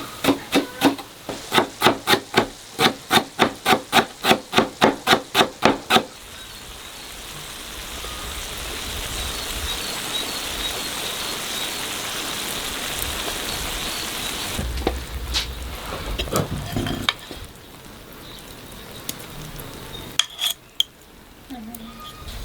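Cooking sounds. For about six seconds a utensil strikes a bowl or pan in a quick even rhythm, about three strokes a second, each with a short ring. Then a steady sizzle of food frying runs for several seconds, ending in a few scattered knocks.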